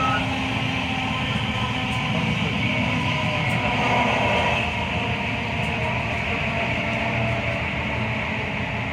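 Class 323 electric multiple unit running along the line, heard from inside the carriage: a steady rumble of wheels and running gear.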